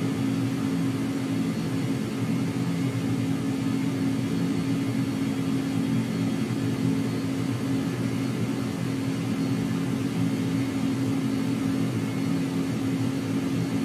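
A steady machine hum at one unchanging pitch, with a faint hiss over it.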